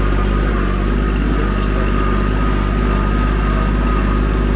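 Vehicle engine idling steadily, an even low hum with no change in speed.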